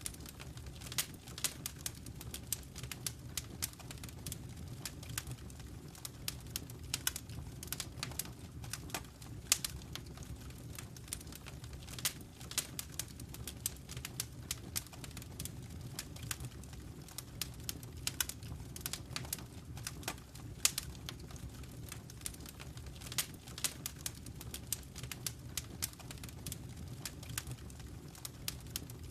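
Wood fire crackling in a fireplace: irregular sharp pops and snaps, some much louder than others, over a steady low rumble of the flames.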